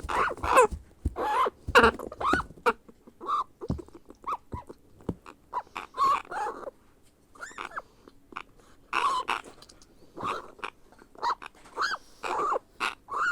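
Grey parrot chick making repeated short begging calls, some bending up and down in pitch, with sharp clicks between them, the food-begging of a hand-fed hatchling.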